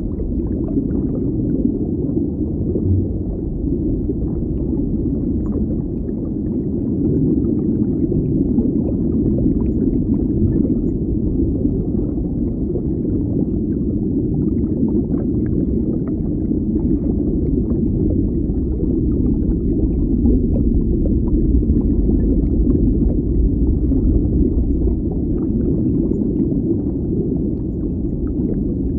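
Underwater ambience: a steady, muffled low rush of water with a deep rumble and faint scattered crackles.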